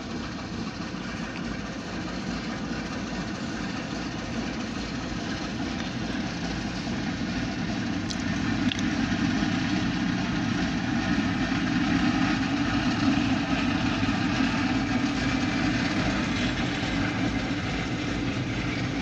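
Freight train rolling past with a steady rumble of wheels on rail and a diesel engine running. The rumble grows louder from about eight seconds in as the train's rear Alco locomotive draws near.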